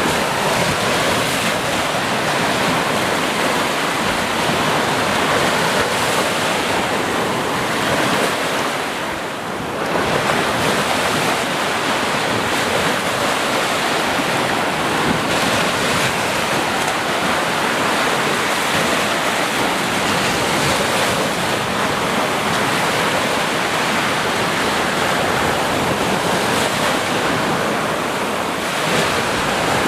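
Ocean waves breaking and washing on the shore in a continuous surf, with a brief lull about nine seconds in before the next wave swells back.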